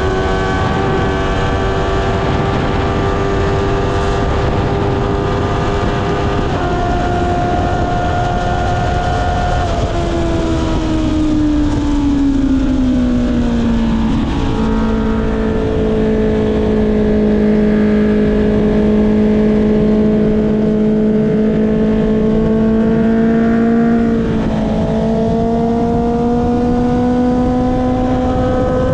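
Honda CB650R inline-four through an Akrapovic exhaust, running under way at steady revs. About ten seconds in, the revs fall away over a few seconds as the bike slows. The engine then holds a lower, steady note and climbs slowly near the end, over constant wind noise.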